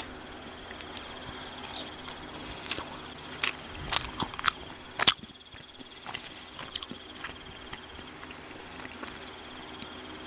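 Close-miked eating sounds: crunching and chewing of fried fast food, with scattered sharp crunches and a cluster of louder bites in the middle.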